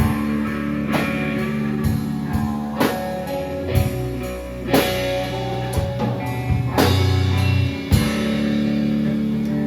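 Live rock band playing an instrumental passage with no vocals: electric guitar and bass holding long notes over drum hits about once a second.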